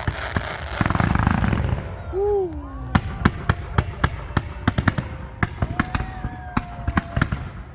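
Fireworks display: a rapid, irregular series of sharp bangs and crackles, with a dense burst of crackling about a second in.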